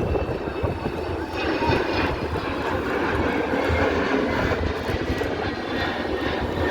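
Fixed-wing aircraft engine noise, steady and fairly loud, from an airplane flying at an airshow.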